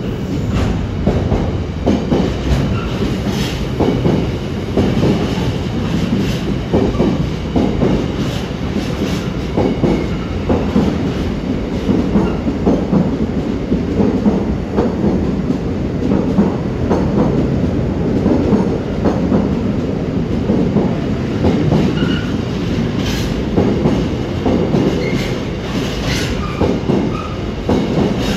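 Intermodal container freight train's flat wagons rolling steadily past, their wheels keeping up a continuous rumble and clatter on the rails.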